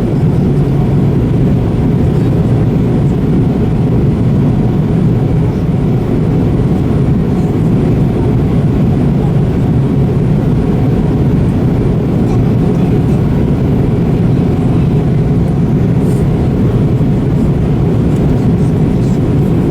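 Steady, even rumble of an airliner's engines and airflow heard from inside the cabin in flight.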